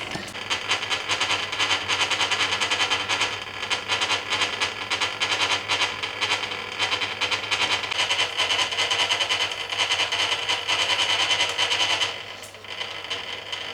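Hoover Keymatic A3112 washing machine heard from inside its stainless steel drum during the dilution fill, as water runs into the drum: a fast, dense clattering rattle with a brief dip in level about twelve seconds in.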